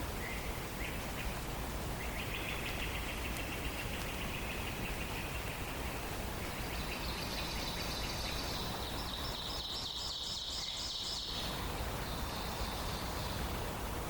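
Songbirds singing rapid trills: a lower trill from about two seconds in, then higher trills from about six seconds in until near the end, over a steady background hiss.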